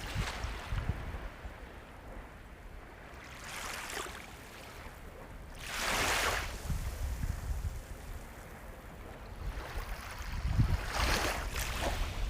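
Sea waves breaking and washing in over a low, steady rumble of surf. Surges rise and fall about four, six and eleven seconds in, the one around six seconds the loudest.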